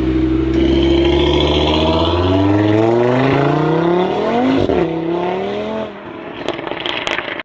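A man's mouth imitating an Audi TT RS engine revving. The pitch climbs steadily for about four seconds like an engine pulling up through a gear, peaks, drops to a lower held note and fades.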